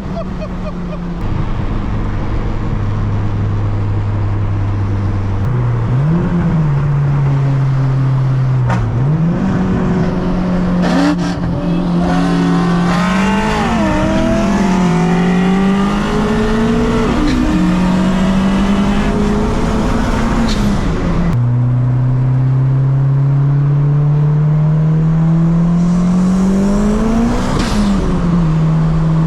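Turbocharged Honda Civic engine pulling hard through the gears: its pitch climbs, drops sharply at each upshift, and climbs again, several times over.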